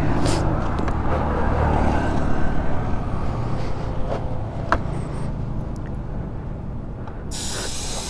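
Steady low vehicle rumble with a couple of sharp clicks. About seven seconds in, a loud hiss of compressed air starts suddenly: a tyre inflator filling a motorcycle tyre.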